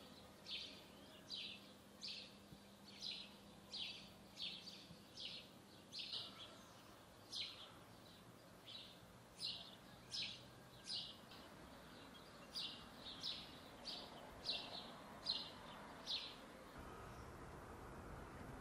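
A bird calling over and over at dusk: short, high, downward-sliding chirps, one or two a second, faint against a quiet background. The calls stop a couple of seconds before the end, leaving a steady low outdoor noise.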